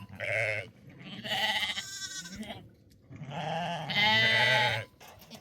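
Livestock bleating: three quavering calls, the third long and the loudest.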